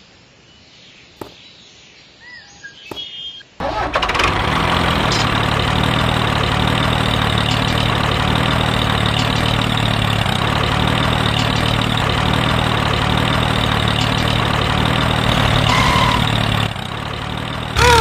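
Tractor engine starting suddenly about three and a half seconds in, then running steadily with a low, even chug.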